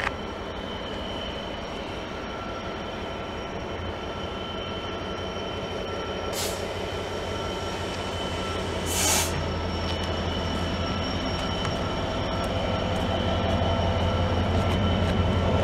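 Class 66 diesel-electric freight locomotive hauling a container train, its engine droning steadily and slowly getting louder, with a faint high steady whine. Two short hisses come about six and nine seconds in.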